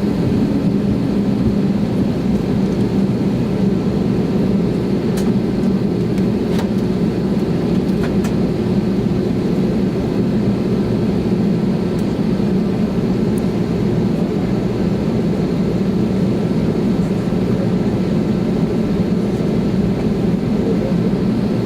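Steady cabin noise of an Airbus A320neo taxiing, its CFM LEAP-1A engines running at idle with a low hum over a constant rumble. A few faint clicks sound between about five and eight seconds in.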